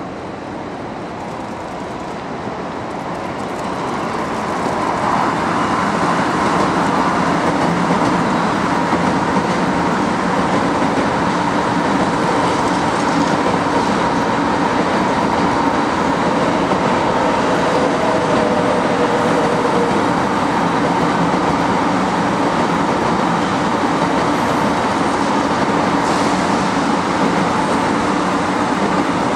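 Shinkansen electric train running past at low speed, a steady loud rush of wheels and running gear that builds over the first few seconds. A steady whine from the motors is held over the top.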